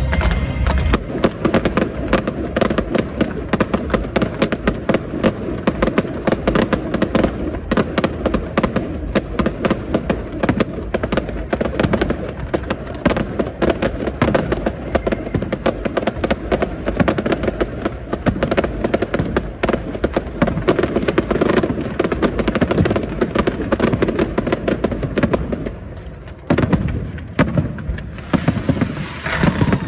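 Aerial fireworks bursting in a dense, rapid barrage of bangs and crackles, several a second, easing briefly about 26 seconds in before picking up again.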